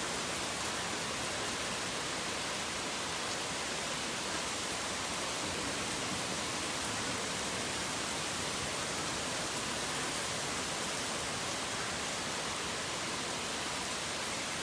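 Rain falling steadily, an even hiss with no thunder or distinct drops standing out.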